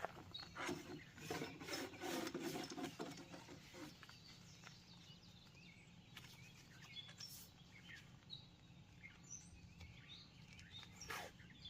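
Faint outdoor ambience with short high bird chirps scattered throughout. In the first few seconds there are also clicks and rustling, as of things being handled.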